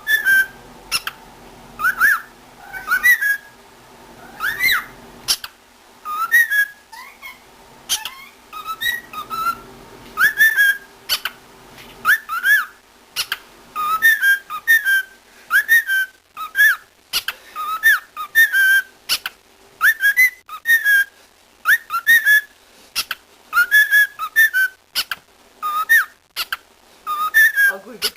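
Cockatiel whistling and chirping, a long run of short whistled notes that glide up or down, about one or two a second.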